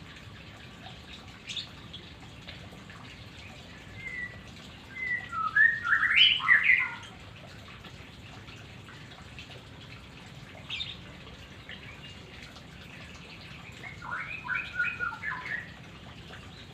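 White-rumped shama (murai batu) singing: a short burst of fast, varied whistled notes about a third of the way in, a second burst near the end, and a couple of single short calls between them.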